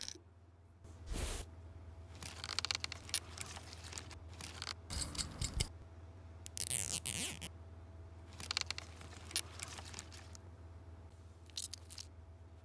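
Intermittent scraping, rustling and clicking of small objects being handled, over a faint steady low hum.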